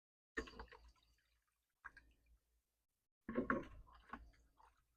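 Water splashing and dripping in a garden fountain's basin, in two short bursts, with a small click between them.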